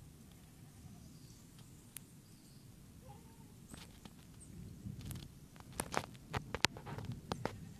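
Steady low rumble of the ongoing volcanic eruption's thunder, with a few faint chirps. In the last few seconds a run of sharp, close clicks and knocks is the loudest sound.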